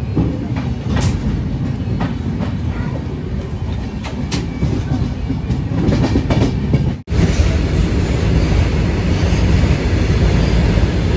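Indian Railways express train running, heard from an open coach door: a steady rumble of the coaches with the wheels clattering over rail joints and points. The sound drops out for a moment about seven seconds in, then the running noise carries on.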